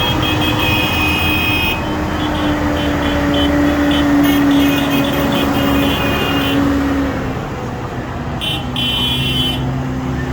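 Tractor engines running as they pass in a line. A strong engine drone falls slowly in pitch, over low rumble, with a high-pitched tone that cuts in and out.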